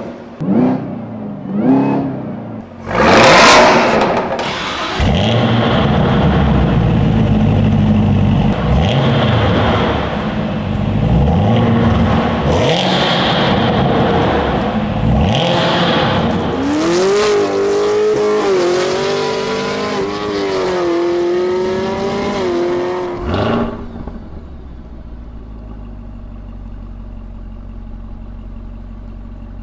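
Chevrolet Camaro ZL1's supercharged 6.2-litre V8 through its exhaust. It gives a few sharp revs, then runs loud under hard acceleration with the pitch climbing and falling repeatedly, a high whine riding over it for several seconds. Near the end it drops to a low, steady idle.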